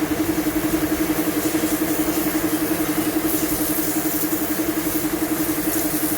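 A motor running steadily at an even speed, with a fast, regular pulse.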